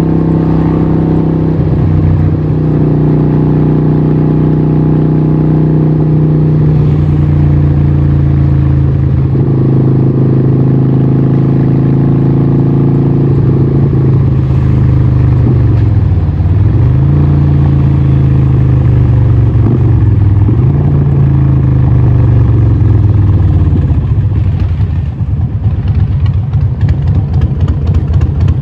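Harley-Davidson 1200 Nightster's 1200cc Evolution V-twin running through a Vance & Hines exhaust at a steady pitch. The pitch dips briefly twice around the middle, and near the end it falls and turns choppy as the engine drops toward idle.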